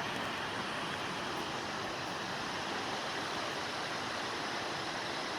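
Steady rushing of the Stigfossen waterfall plunging down the valley.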